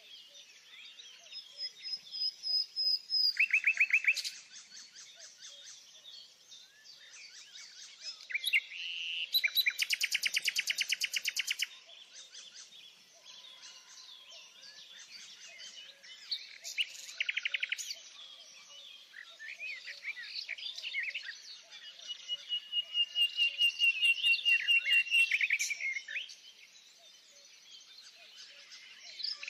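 Songbirds singing and chirping, with several loud, rapid trills of quickly repeated notes, each lasting a second or more, and softer chirps and thin whistled notes between them.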